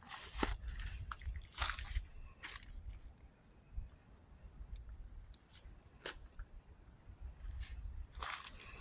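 Irregular crunching and rustling noises, in clusters at the start and near the end, over a low rumble.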